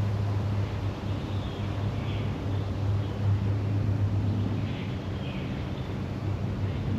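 A steady low hum, with faint short bird chirps recurring every second or so above it.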